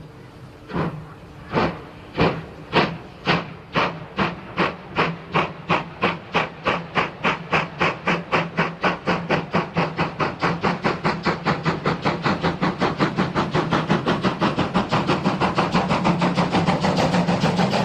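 German class 35.10 steam locomotive 35 1097, a two-cylinder 2-6-2, pulling away hard: its loud exhaust beats start about a second apart and quicken steadily to several a second as the train gathers speed, over a steady low hum.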